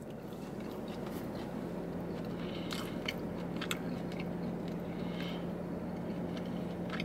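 A person chewing a mouthful of marinated grilled steak, with scattered soft chewing clicks over a steady low hum.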